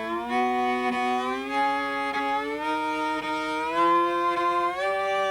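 Cello in thumb position playing a thumb-shifting exercise in fifths, moving up by whole steps. Each shift is a slow, even glide under steady bow pressure that settles onto the next pitch, so the sound climbs in several small steps.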